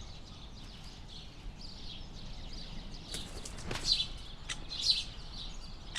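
Birds chirping in short high calls, the brightest about four and five seconds in, with a few sharp clicks between them over a steady low background noise.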